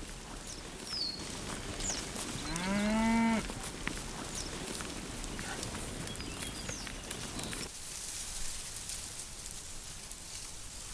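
A cow mooing once, a single call of about a second that rises slightly in pitch.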